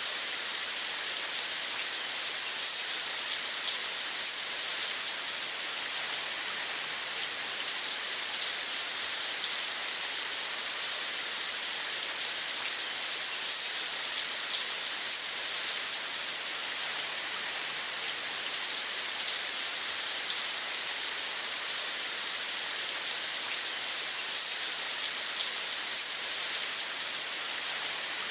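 Steady rain: an even hiss of many small drops pattering, brightest in the high end.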